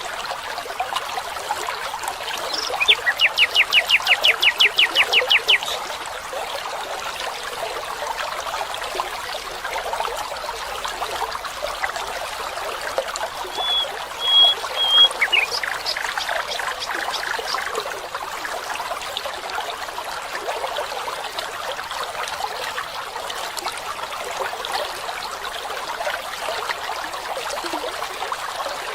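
Water trickling and running steadily, with birds singing over it: a rapid trill of quickly repeated notes about three seconds in, a few short high whistles around the middle, and another run of repeated notes just after.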